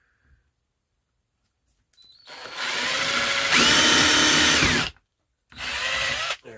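Electric drill boring a screw hole in wood. The motor spins up after about two seconds, climbs to a higher speed for a moment and stops, then runs again briefly near the end.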